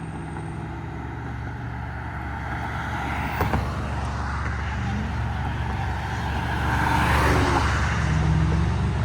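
Motor vehicles moving on a road: a steady low engine hum with tyre noise, growing louder about seven seconds in as a vehicle passes close.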